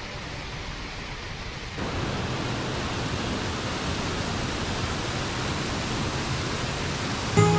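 Steady rush of flowing water from a mountain river, growing louder about two seconds in. Plucked-string music comes in right at the end.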